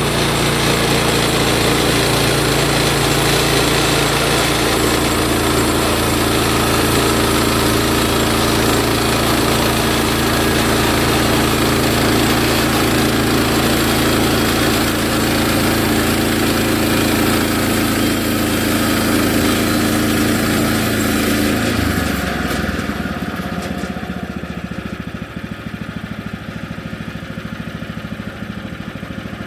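Woodland Mills HM130MAX sawmill's gasoline engine running steadily at high speed, then dropping back to a quieter, lower idle about twenty-two seconds in.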